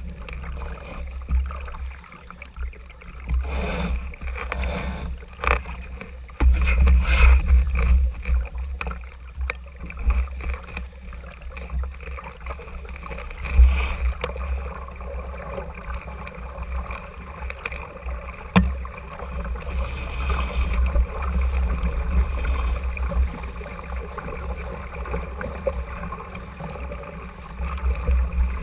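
Water rushing and slapping along the hull of a small RS Tera sailing dinghy under way, with a deep gusting rumble of wind on the action camera's microphone. A few knocks come about four seconds in, and one sharp knock comes about two-thirds through.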